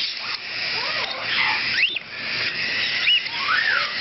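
Baby cockatiels, still being hand fed, calling: a series of short chirps that rise and fall in pitch, one sweeping sharply upward just before two seconds in.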